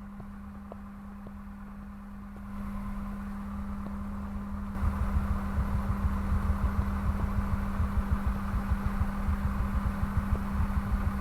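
Piper PA-38 Tomahawk's four-cylinder Lycoming O-235 engine running at low taxi power, heard from inside the cockpit over a steady hum. The engine gets louder about two and a half seconds in and again about five seconds in, then runs steady with a pulsing low rumble.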